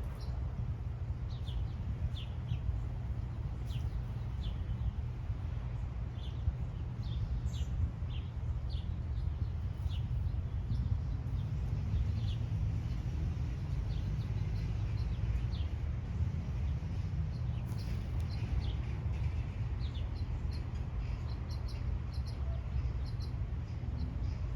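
Small birds chirping: many short, separate high chirps scattered throughout, over a steady low rumble.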